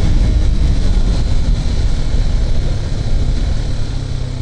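KTM RC 390's single-cylinder engine running steadily at road speed on its stock exhaust, easing off slightly near the end.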